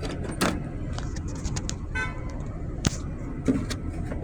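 Steady low hum of a car, with a few sharp clicks and one brief high-pitched tone about two seconds in.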